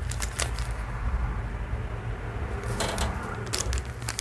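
Small jewelry pieces and watch parts being handled, giving a few light clicks and rattles, with a busier patch of clicking about three seconds in, over a low steady hum.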